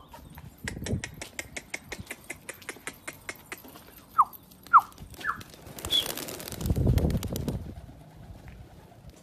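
Domestic pigeons flapping their wings in a steady rhythm of about four or five beats a second, with three short falling chirps about four to five seconds in. A louder rush of wings follows near the end.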